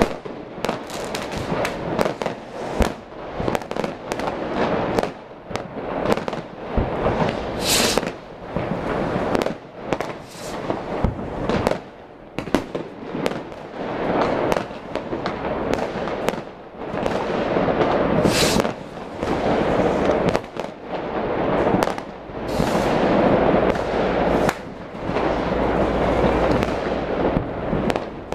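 New Year's fireworks: a dense, irregular barrage of bangs and crackles from aerial shells and rockets, over a constant rumble of many more going off across the city. A few short, high hisses stand out about 8, 18 and 22 seconds in.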